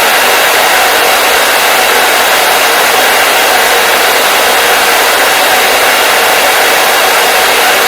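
Electric hair dryer running steadily: an even, unbroken rush of air with a faint motor hum, sitting high with little bass.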